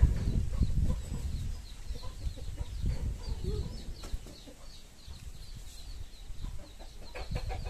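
Birds chirping and clucking in the background over a low rumble, with a quick run of sharper calls near the end.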